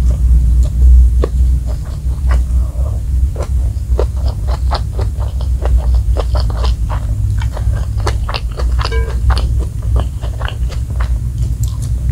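Close-miked mouth sounds of chewing a mouthful of spicy fried rice and smashed fried chicken: wet smacks and crunchy clicks, thickest from about four to nine seconds in, over a steady low hum.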